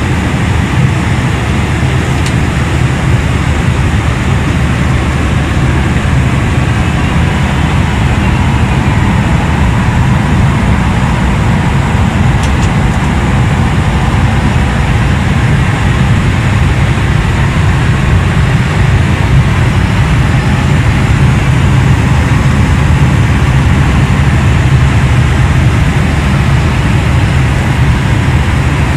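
Steady, loud cabin noise inside a Boeing 737-800's galley: an even low rumble with a hiss over it.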